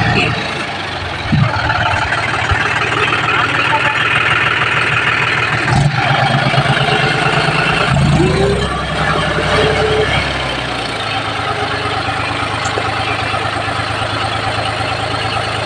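John Deere tractor's diesel engine running steadily, its note changing about eight seconds in and settling after that.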